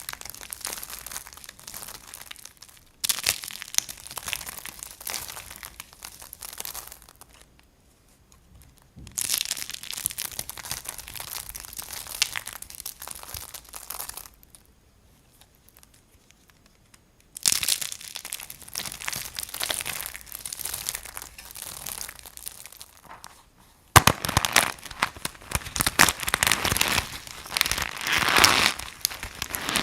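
Dry soap crunching and crackling: dense rapid crackles in several separate runs of a few seconds each, with short quiet breaks between them and the densest, loudest run near the end.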